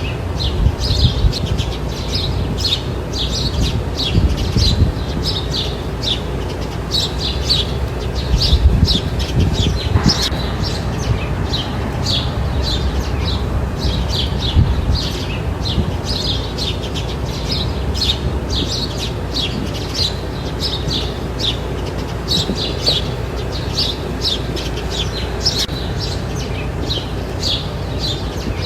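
Small birds chirping, many short high notes in quick succession throughout, over a steady low rumble.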